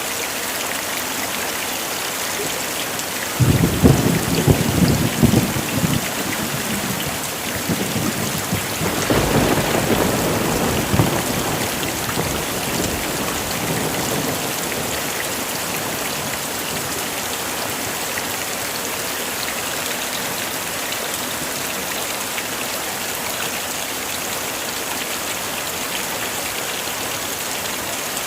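Heavy rain falling steadily, with a thunderclap about three seconds in that crackles, rolls on with a second swell a few seconds later, and dies away, leaving the rain.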